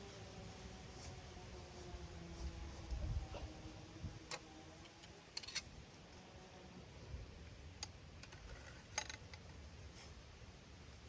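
A few faint, sharp clicks and ticks at uneven intervals over a low background rumble, with a faint tone slowly falling in pitch during the first few seconds.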